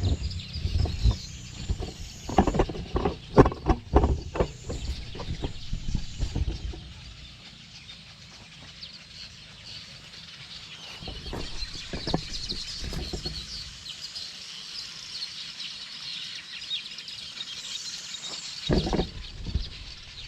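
Sharp clicks and knocks of a small camera being handled and fixed in place, strongest over the first several seconds, with birds chirping and calling throughout and most clearly in the quieter second half.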